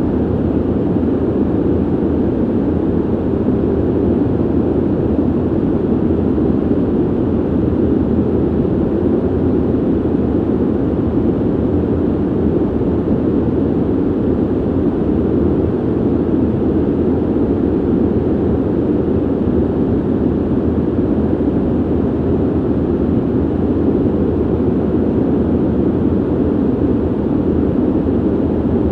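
Ventilation noise: a steady, even rush of air, low and dull, with no hum, tones or changes.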